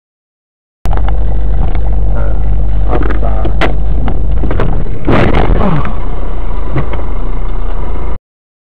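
Distorted dashcam audio of a car on the road: a loud, steady low rumble from road and engine, with sharp knocks and a louder, noisier stretch about five seconds in.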